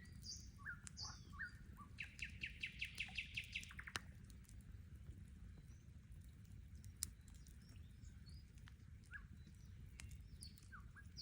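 Several birds singing, with short chirps and whistled notes and a rapid trill of about six notes a second from about two to four seconds in. A campfire crackles sharply now and then, over a low steady rumble.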